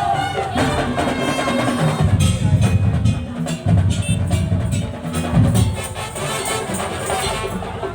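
Madurese tong-tong (daul) ensemble playing, with wooden slit drums and bass drums beating a fast rhythm under a pitched melody.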